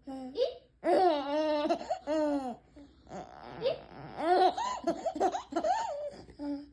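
A baby laughing in repeated bursts, mixed with long high-pitched drawn-out vocal sounds.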